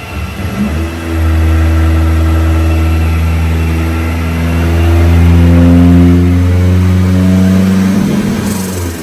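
Turbocharged Nissan Hardbody pickup engine running hard under load on a chassis dynamometer, its pitch climbing in steps as the revs rise through a pull, then backing off near the end.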